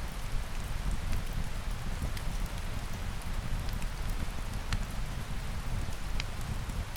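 Steady rain with a deep low rumble, and a few sharp clicks scattered through it.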